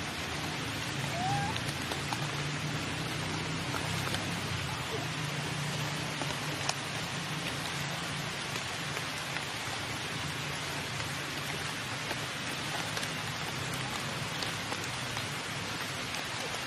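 Steady rain falling, an even hiss with a few separate drops ticking.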